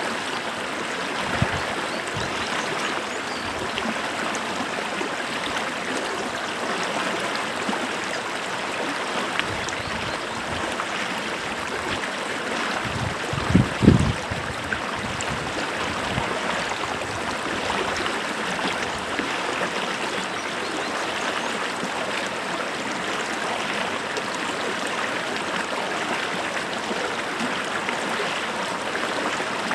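A small creek flowing, a steady rushing and trickling of water. Just before halfway through there is a brief low thud.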